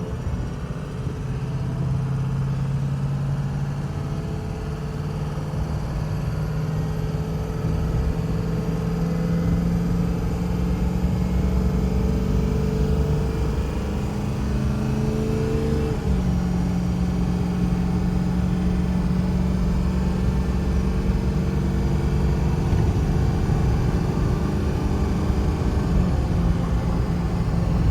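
Ford F550 service truck's engine pulling the truck up through the gears on the road. Its note climbs slowly, drops suddenly at an upshift about halfway through, then climbs again.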